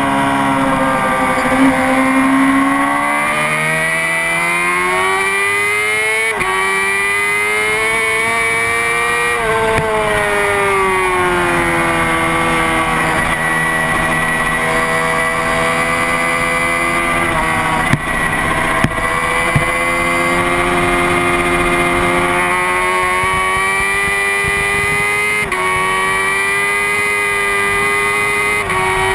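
Honda CBR600RR's inline-four engine at high revs around a race track, its pitch climbing and falling again and again as the bike accelerates and slows for corners, with sudden steps in pitch at gear changes. A steady rush of wind noise runs underneath.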